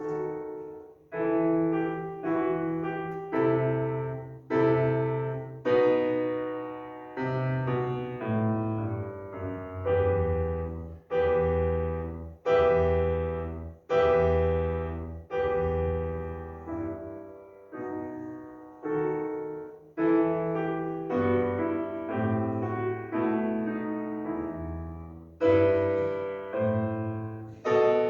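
Solo piano playing a slow piece: notes and chords struck one after another, each ringing and fading before the next.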